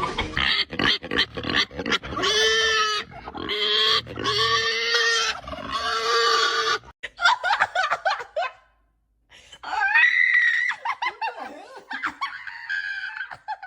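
A person laughing hard: quick gasping pulses, then several drawn-out high-pitched laughs of about a second each. A short break comes about nine seconds in, then more laughing.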